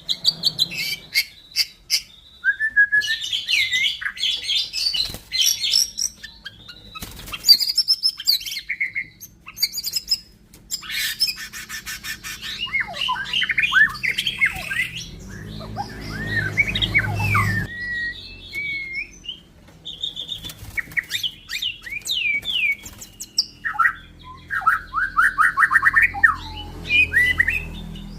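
White-rumped shama singing a long, varied song of clear whistles, fast trills and gliding notes, broken by sharp clicks.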